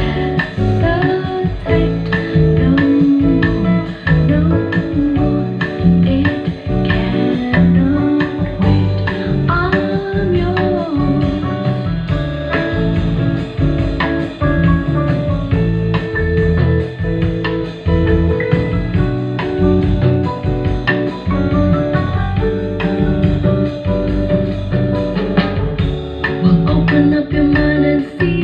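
Song with singing, guitar and drums played from CD through a Sony LBT-ZUX10D mini hi-fi system's speakers, loud and heavy in the bass.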